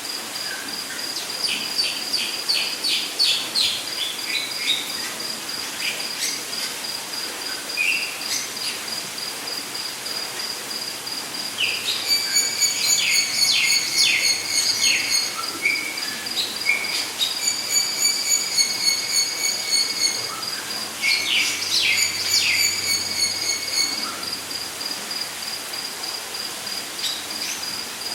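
Rainforest ambience: an insect trilling in a steady, high, pulsing tone, with birds calling in bouts of quick, repeated notes near the start, around the middle and again about three quarters of the way in.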